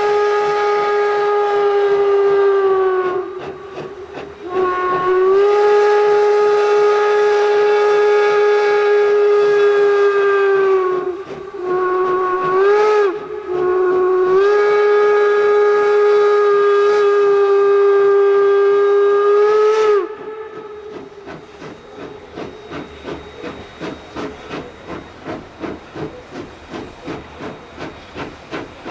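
Steam whistle of 2-8-0 steam locomotive #111 blowing long, long, short, long, the pattern of a road-crossing signal, with the pitch sagging as each blast closes. Then the locomotive's exhaust chuffs at about two beats a second as it works.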